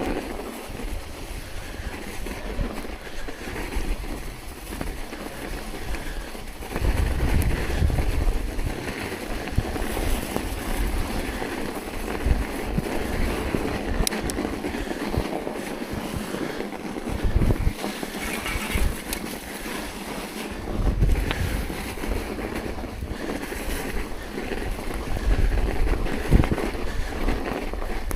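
Wind buffeting the microphone in irregular low gusts over a steady rushing noise from the ride.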